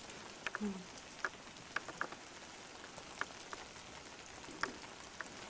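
Steady heavy rain, with irregular drops ticking close by and a short low sound about half a second in.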